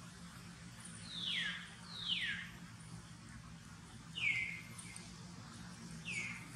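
Animal calls: four short, high calls, each sliding downward in pitch, in two pairs about a second apart, with a longer gap between the pairs.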